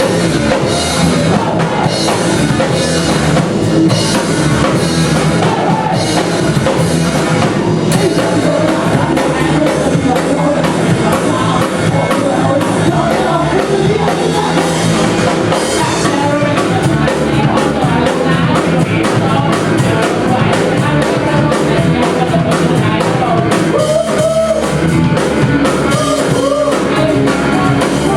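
Rock band playing loud live music, with the drum kit driving a steady beat.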